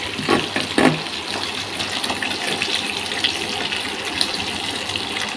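Pork spare ribs frying in hot oil in a pan: a steady sizzle with scattered crackles and spatters as the pieces brown.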